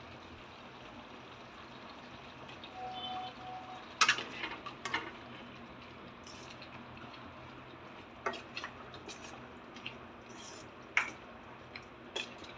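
A spoon stirring curry in a cooking pot, knocking and scraping against the pot in short clinks: a cluster about four seconds in, more around eight to nine seconds, and a loud one near eleven seconds. A steady low hiss runs underneath.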